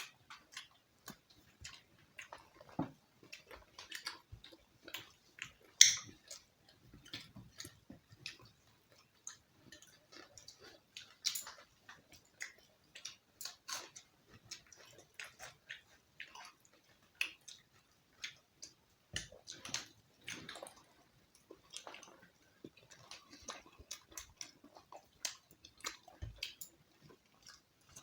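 Eating sounds close to the microphone: wet chewing and small clicks and crackles of people eating roti with chicken curry by hand, with a few louder clicks and taps along the way.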